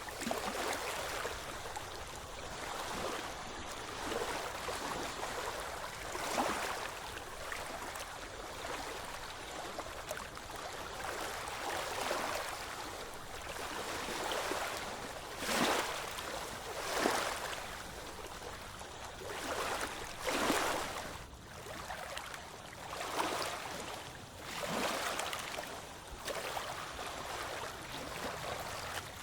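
Ocean waves washing in: a continuous rushing hiss that swells and falls, with several sharper, louder surges in the second half.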